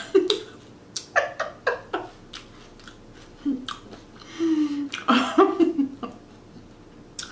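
A person chewing Caesar salad close to the microphone, with many short wet clicks and crunches from the mouth. A few short hummed "mm" sounds come in over the second half.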